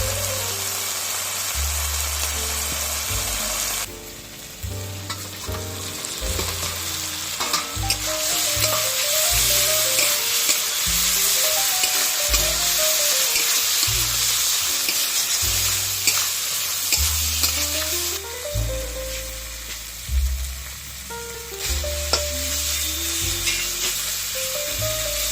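Food sizzling in hot oil in a pan as it is stirred, a steady hiss that drops out briefly a few times. Background music with a melody and bass notes plays underneath.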